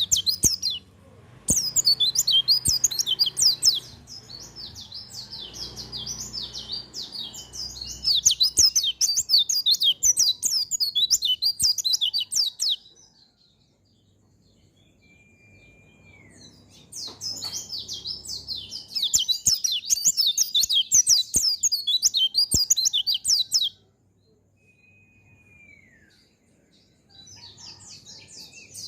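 A pleci (white-eye, Zosterops) singing long, fast, high twittering song phrases in two long runs. A single thin, falling note sounds in each pause between them.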